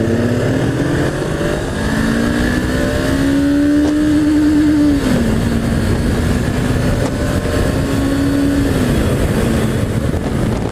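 Honda CBR500's parallel-twin engine under way: the note climbs as the bike accelerates, steps down at a gear change about five seconds in, holds steady, then falls near the end as the throttle eases. Wind rushes over the microphone throughout.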